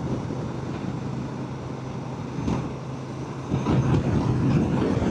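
Motorcycle engine running while riding, under wind rush, growing louder about three and a half seconds in.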